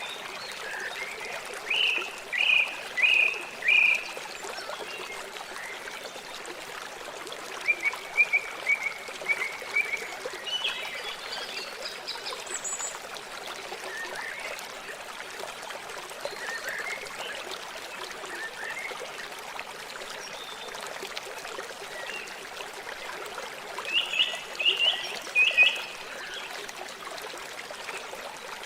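Steady rush of a flowing river, with birds calling over it: a burst of four loud chirps a couple of seconds in, a run of short notes around eight seconds, and another cluster of chirps near the end.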